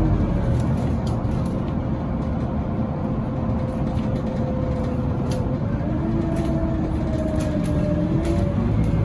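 Scania Citywide LFA articulated bus on the move: a steady low engine rumble with a whine that drifts slowly in pitch. A second, lower whine comes in about two-thirds of the way through, and short rattles and clicks are scattered throughout.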